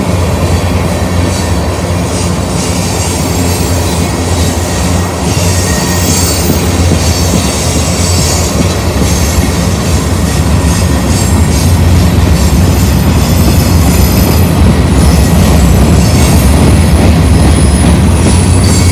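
Freight cars of a manifest train rolling past close by: a steady rumble of steel wheels on rail, with thin, high wheel squeal over it, growing a little louder in the second half.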